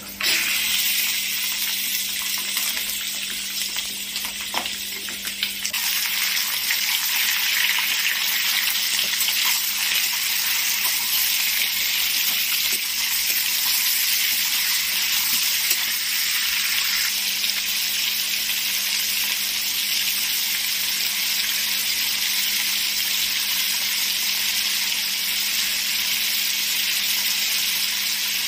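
Raw chicken pieces hitting hot oil and fried onions in a kadai, sizzling at once with a loud, steady hiss. The sizzle grows louder about six seconds in as the chicken is stirred with a metal spatula.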